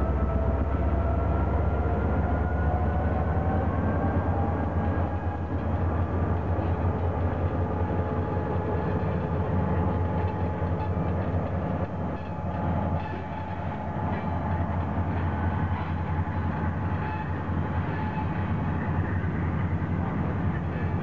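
Norfolk Southern freight train passing close by. First comes the low drone of the trailing diesel locomotive's engine, with a whine that rises slightly. Then tank cars and covered hoppers roll past with the steady noise of wheels on the rails.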